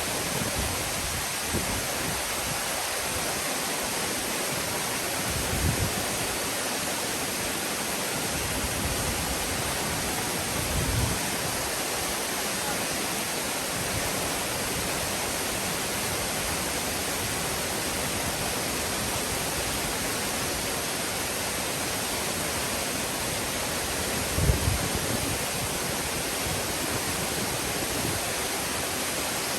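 Waterfall rushing with a steady, even roar of falling water. A few brief low thumps break in, the sharpest about twenty-four seconds in.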